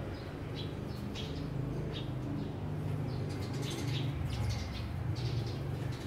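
Small birds chirping in short, scattered high notes over a steady low background hum.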